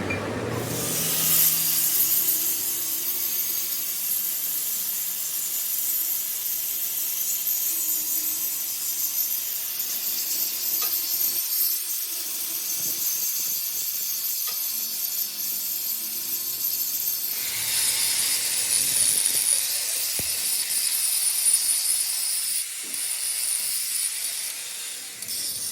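A steady, high hiss that starts suddenly and holds for most of the time. About two-thirds through, it changes and thin whistling tones join it, and then it cuts off at the end.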